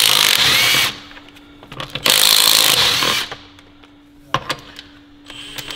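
Pneumatic impact wrench run in two bursts of about a second each, loosening the wheel bolts to take the rear wheel off, followed by a few light clicks.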